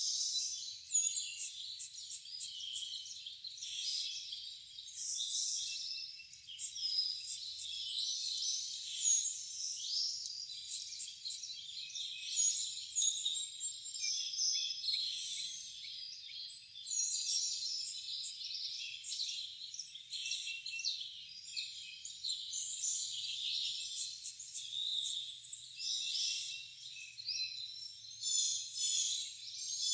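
A dense chorus of songbirds: many short chirps, trills and whistled notes overlapping without a break.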